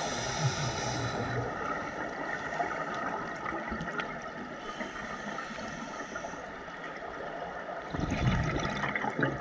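Underwater sound of a scuba diver breathing through a regulator: a hissing inhalation about five seconds in, then a burst of bubbling from the exhalation near the end.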